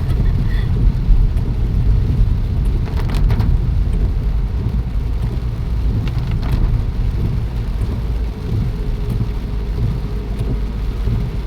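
Rain falling, heard as a steady low rumble, with a couple of faint clicks about three and six and a half seconds in.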